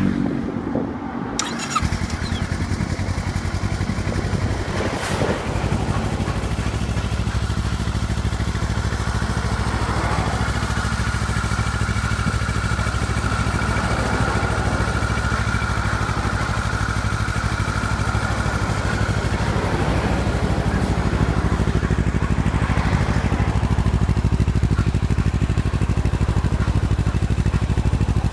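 Kawasaki Ninja 400R's parallel-twin engine starting about a second in, then idling steadily through a Realize Wyvern Real Spec slip-on exhaust muffler.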